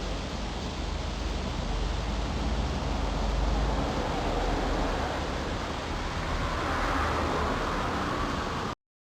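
Steady rushing background noise with a low rumble, cutting off suddenly near the end.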